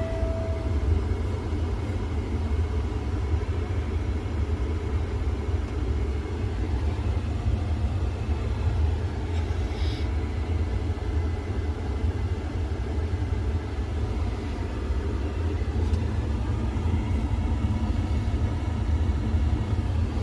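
A steady low rumble, like a large engine running, that holds unchanged throughout with no clear start-up or cranking. A short steady electronic tone ends just under a second in.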